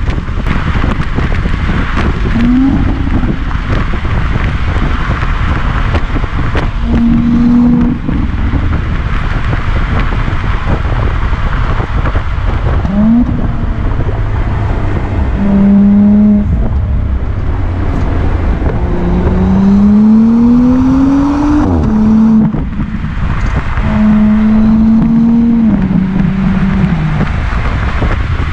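Audi S4 Avant (B9) being driven hard. The engine note climbs under acceleration and drops back at gear changes, several times, over a steady rumble of road and wind noise.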